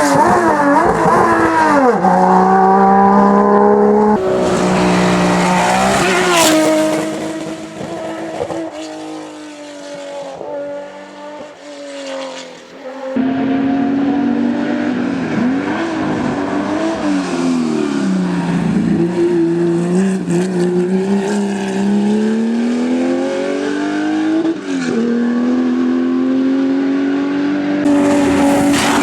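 Racing car engines at high revs, the pitch climbing and dropping again and again through gear changes and lifts off the throttle. The sound changes abruptly a few times, from one car to the next, and dips quieter for a few seconds around the middle before another engine comes in loud.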